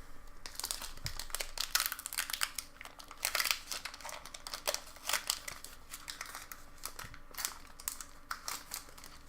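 Foil wrapper of a Pokémon trading card booster pack being torn open and crinkled by hand: irregular crackling and rustling.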